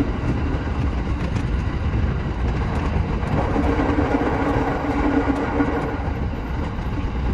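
Shinano Railway SR1 series electric train running along the line: a steady rumble and rail noise. A hum with a steady pitch rises over it from about three and a half seconds in and fades out near six seconds.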